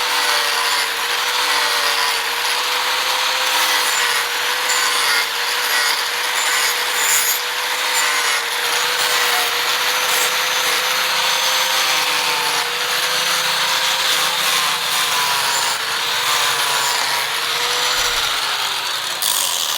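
A power tool runs steadily under load with a rough, rasping abrasion of the workpiece, its motor hum wavering slightly as the pressure changes.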